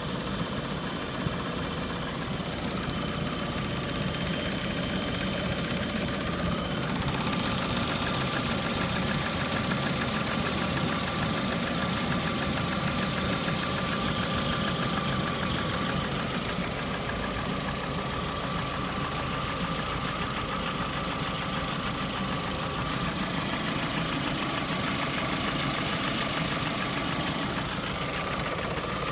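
Lada Priora's four-cylinder petrol engine running steadily with a knock coming from inside the engine. The sound brightens slightly about a quarter of the way in.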